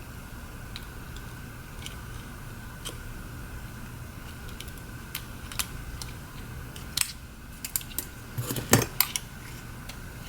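Small, sharp clicks and taps of hand tools and phone parts as a Galaxy S7 edge's motherboard is unclipped and lifted out. The clicks are scattered, with a louder cluster about seven to nine seconds in, over a faint steady hum.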